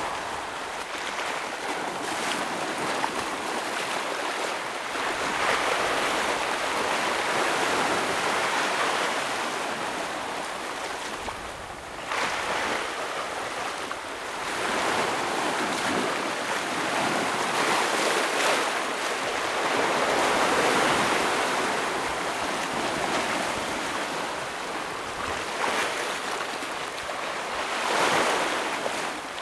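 Ocean waves breaking and washing over rocks, a steady rush that swells and eases, with stronger surges every several seconds.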